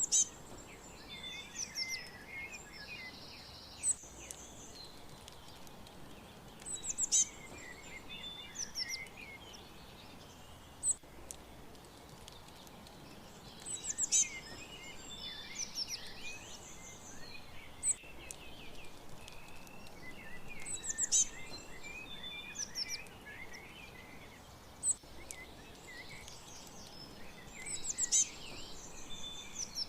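Several small songbirds chirping and calling over a steady background hiss, with short high chirps and quick whistled notes. Denser bursts of song come about every seven seconds.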